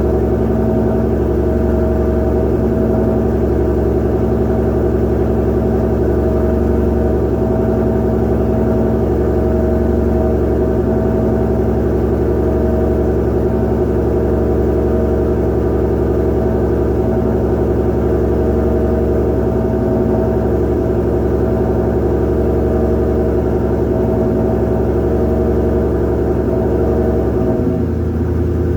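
2020 Shelby GT500's supercharged 5.2-litre V8, fitted with a Whipple supercharger, ARH headers and Borla exhaust, idling steadily after a cold start with a deep, even exhaust drone. Near the end the engine note briefly dips and then settles at a slightly different pitch.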